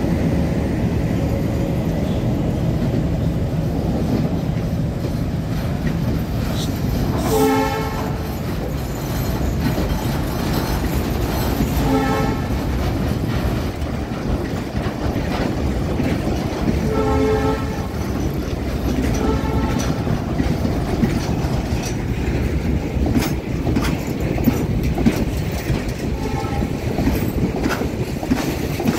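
Diesel-hauled freight train of tank-container wagons rolling past at slow speed: a steady low rumble with wheels clicking over rail joints. About five short horn toots sound a few seconds apart.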